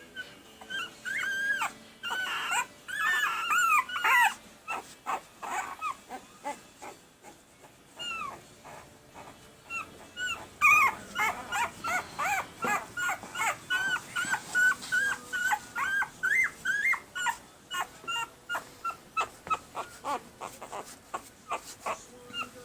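Week-old Pembroke Welsh Corgi puppies whining and squeaking in high-pitched cries that bend in pitch. About ten seconds in, the cries become a quick, even string of short squeals, about two a second.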